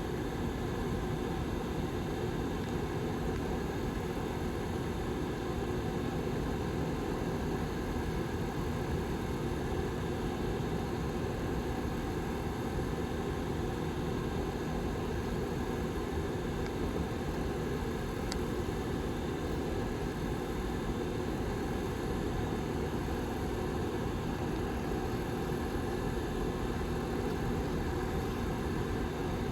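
Rear fan of a Lasko Model 755320 tower heater running: a steady whir with a faint hum of a few steady tones.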